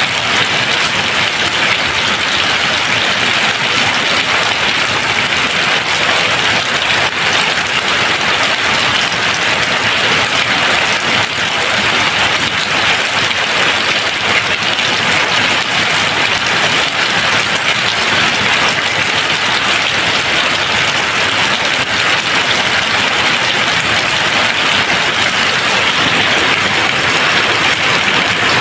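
Steady rain falling, a dense, even hiss with no thunder.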